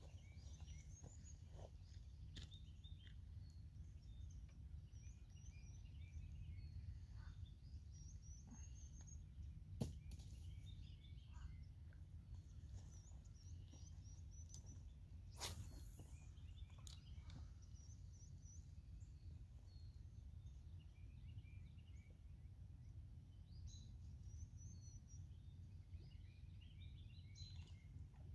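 Faint outdoor quiet: small birds chirping here and there over a low steady rumble, with a few sharp clicks, the loudest about ten seconds in.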